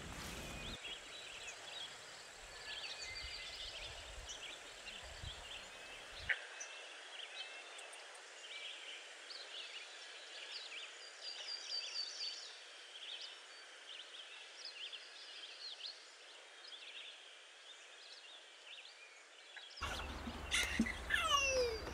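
Birds chirping and twittering in many short, high calls over a faint outdoor hiss.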